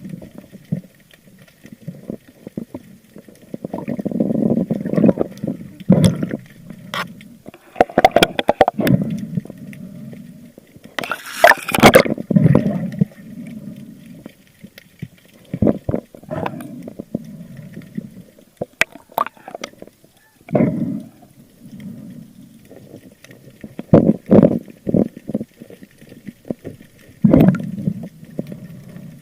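Muffled water sounds heard through an underwater camera: surging, gurgling water noise with scattered sharp clicks and knocks, and a louder rush about eleven seconds in.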